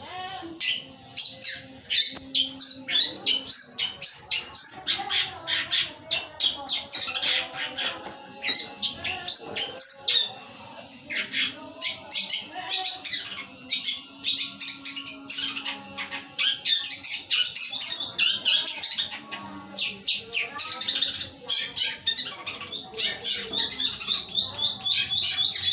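Long-tailed shrike (pentet) singing a continuous, rapid medley of harsh squawks and high chirps, mimicking house sparrow (burung gereja) calls. Near the end it runs into a fast, even trill.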